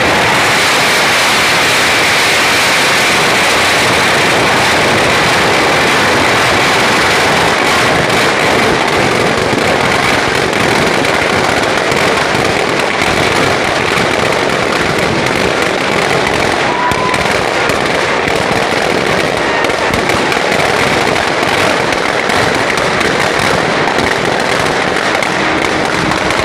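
Firecrackers going off in a dense, continuous crackle, many bursts overlapping without a break.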